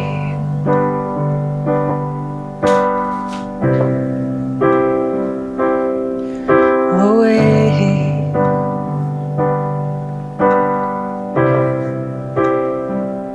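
Piano playing a slow instrumental passage of chords, each struck about once a second and left to ring.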